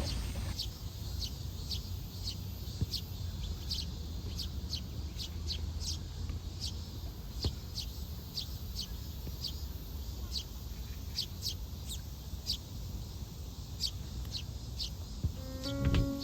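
A small bird chirping over and over, short high chirps that each drop quickly in pitch, about two a second at uneven spacing, over a steady low rumble of background noise.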